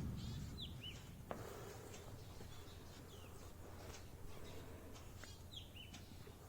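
Faint bird calls: a short two-part call that drops from a high note to a lower one, heard about half a second in and again near the end, with a few fainter chirps between. There is a single sharp click about a second in.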